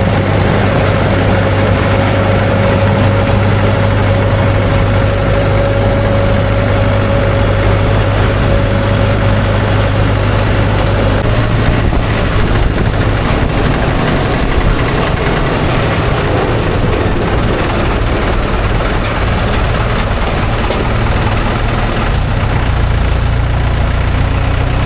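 Heavy diesel tractor engine running steadily under way, with a slight change in its note about halfway through.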